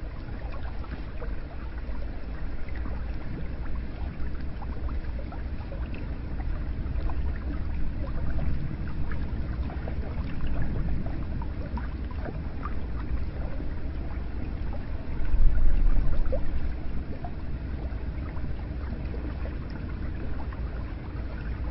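Hot spring water running steadily, a low rush with many small splashes and drips over it, swelling louder for a moment about fifteen seconds in.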